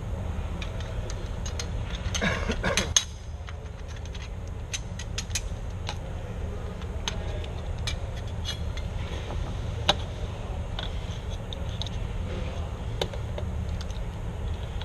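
Metal tools and hardware being handled: scattered light clinks and clicks, with a brief louder scraping rustle about two seconds in, over a steady low rumble.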